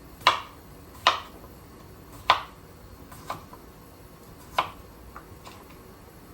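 Knife slicing a potato and striking the cutting board: five sharp knocks at uneven intervals, roughly one a second, with a couple of fainter taps between them.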